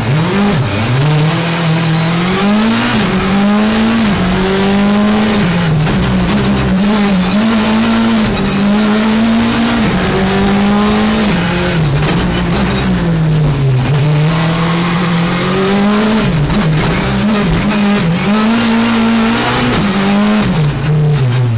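Hyundai i20 R5 rally car's turbocharged 1.6-litre four-cylinder engine, heard from inside the cockpit, revving hard and dropping back over and over as the car accelerates and brakes through tight corners.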